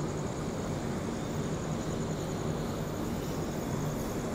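Steady rushing rumble of an express train running past on the neighbouring track.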